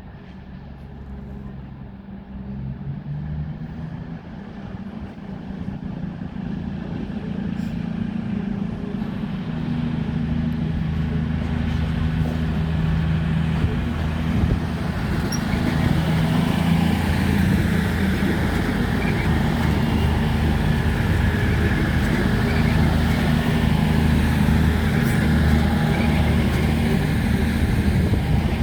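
A train drawing near on the station tracks. Its engine rumble grows louder over about the first ten seconds, then runs steady and loud.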